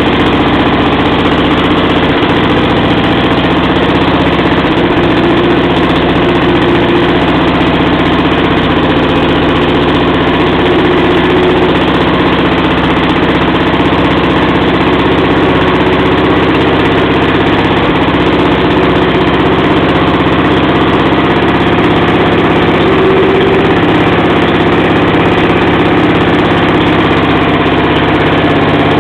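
Bernard W110 bis 240 cc four-stroke petrol engine of a Rotobloc motor pump running steadily at an even speed.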